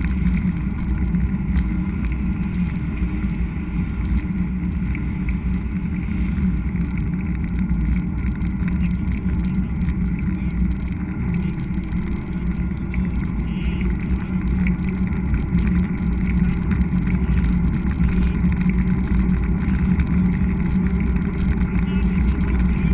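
Steady low rumble of wind and riding noise on an action camera carried on a mountain bike ride.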